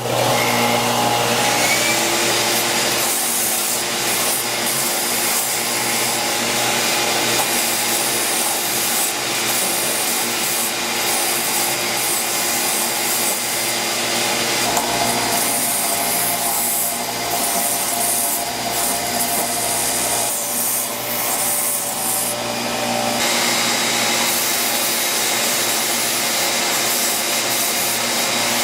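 Belt sander switched on, spinning up and then running steadily with its belt grinding against wood: a glued-up 2x4 blank being sanded round into a large dowel.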